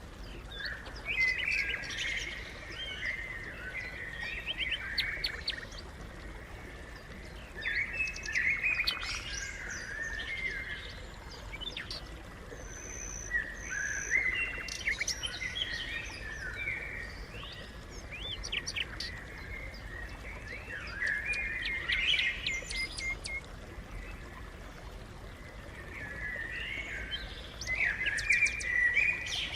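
Several house sparrows chirping together in bouts of chatter a few seconds apart.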